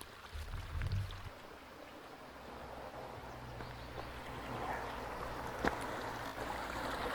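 Small stream trickling, growing slowly louder, over a steady low rumble. A single sharp click sounds near the end.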